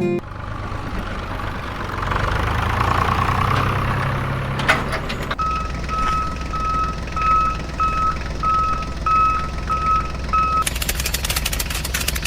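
A vehicle engine running steadily, with a reversing alarm beeping about twice a second for several seconds in the middle. Near the end the beeping stops and a rapid clicking starts.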